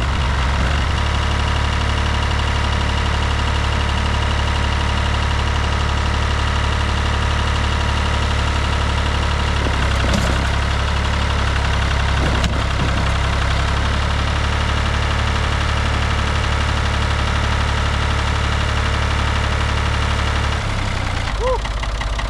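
Tractor engine running steadily at a constant speed, its deep hum shifting abruptly near the end.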